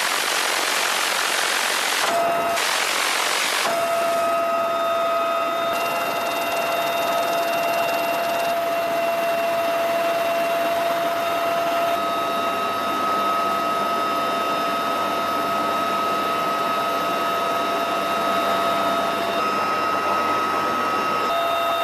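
Helicopter turbine and transmission noise: a steady rushing roar with a high steady whine that sets in about four seconds in and holds.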